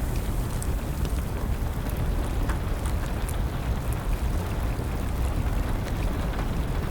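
Steady rain with a strong low rumble, dotted with scattered sharp crackles of a wood fire.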